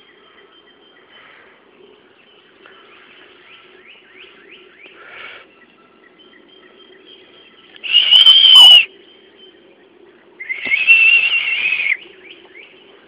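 Birds calling: two loud, wavering high calls, each about a second long, the second a little longer, over faint twittering chirps and a low steady hum.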